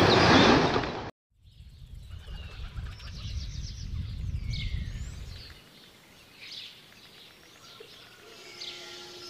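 Rushing water for about the first second, cut off abruptly, then several birds chirping and calling. A low rumble lies under the birds until about halfway, and a faint steady hum comes in near the end.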